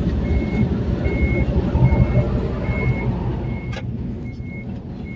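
Reversing-style warning beeper sounding short high beeps a little more than once a second, over the low rumble of engines on a car ferry's vehicle deck. A sharp click about two-thirds of the way through.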